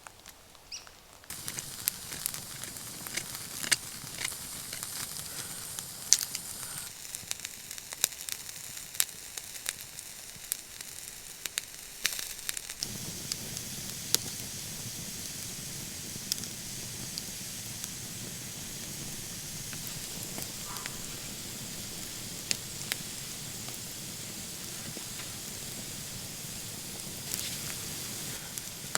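Fire crackling, with a steady hiss and many sharp pops throughout; about halfway through a lower rushing noise joins in.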